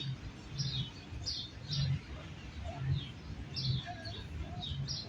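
Small birds chirping: many short, high, downward-sliding chirps repeated again and again, over low dull thuds about twice a second.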